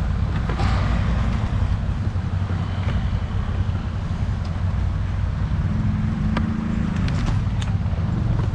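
Off-road vehicle engine running steadily, a continuous low drone with scattered knocks and rattles as it rides over rough ground. The engine note firms up for a second or so about six seconds in.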